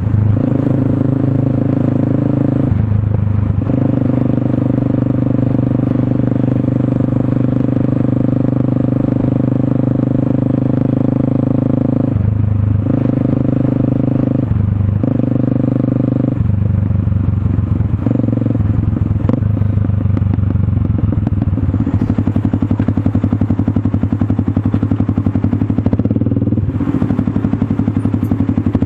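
Motorstar Cafe 400 motorcycle's single-cylinder engine running through an SC Project slip-on exhaust, a steady loud exhaust note whose pitch steps and briefly drops out several times.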